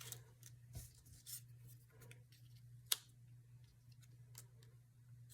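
Faint handling of paper pieces, light rustles and taps, with one sharp click about three seconds in, over a steady low room hum.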